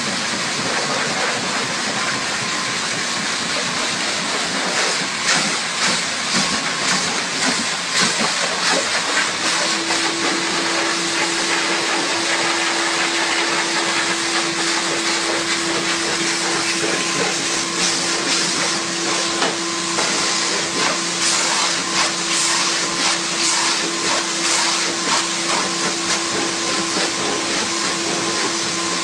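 Car-wash machinery giving a steady, loud hissing rush, with a steady hum joining about ten seconds in.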